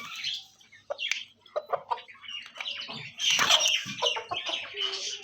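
Chickens clucking amid a busy, high chirping of small cage birds, the chirping thicker in the second half.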